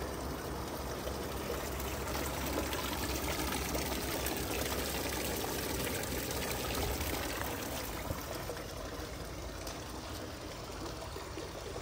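Floodwater pouring steadily down a cleared street storm drain, easing off a little near the end.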